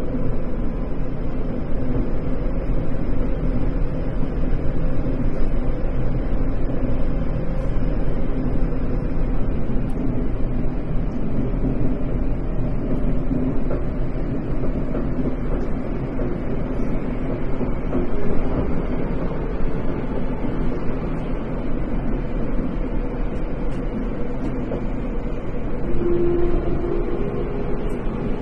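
Tokyo Metro 10000 series train running steadily at speed between stations: a continuous rumble of wheels on rail under a steady hum from the traction motors, with a short higher tone near the end.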